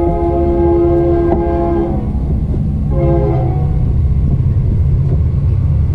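A horn sounds twice at a steady pitch: a long blast of about two seconds, then a short one about three seconds in. A continuous low rumble runs underneath.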